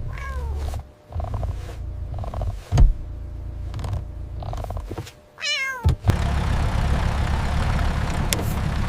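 A cat meowing twice, a falling call near the start and a louder, wavering one about five and a half seconds in, with a sharp thump between them. A steady hiss sets in after the second meow.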